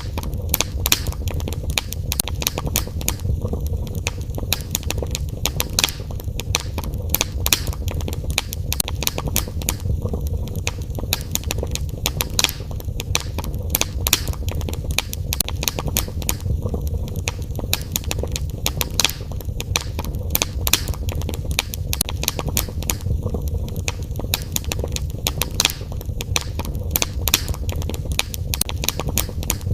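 Fire burning in a fireplace, crackling and popping with many irregular sharp snaps over a low steady rumble.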